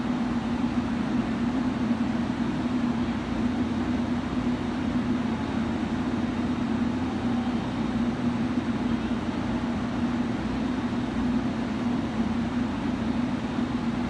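A steady low hum over an even background rumble, unchanging throughout, typical of railway station ambience with electrical equipment running.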